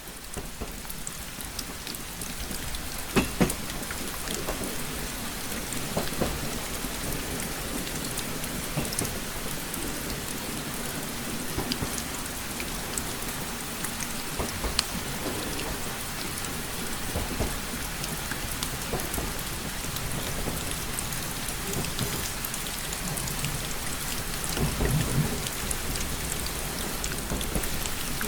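Steady rain pattering on a window, dense with fine drop ticks, with a few deeper rumbles rising under it, the strongest near the end.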